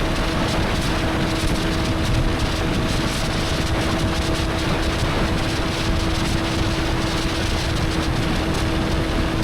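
Motorcycle riding at a steady cruising speed, its engine holding an even, unchanging note under heavy wind rush.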